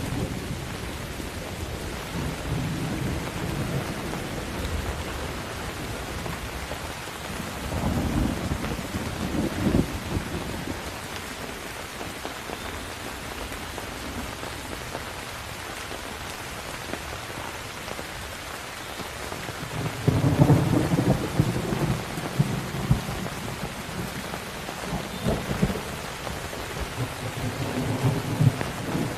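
Steady heavy rain with thunder rumbling several times: a rumble about eight seconds in, a louder, longer roll about twenty seconds in, and another near the end.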